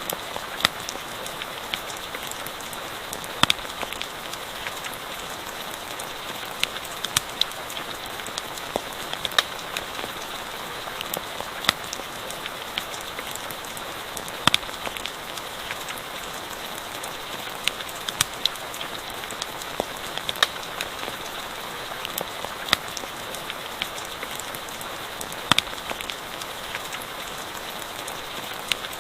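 Steady rain pattering, with sharp crackles and pops from a campfire at irregular moments.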